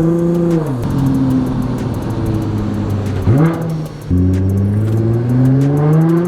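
Nissan GT-R R35's twin-turbo V6 breathing through a Linney drag exhaust, under way. It accelerates and lifts off under a second in, gives a quick rev blip about three seconds in, then pulls hard with steadily rising revs.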